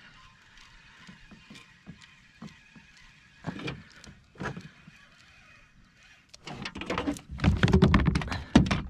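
A landing net being handled on a plastic kayak: a few soft knocks, then louder rubbing and knocking from about six and a half seconds in as the net is pulled free and lifted.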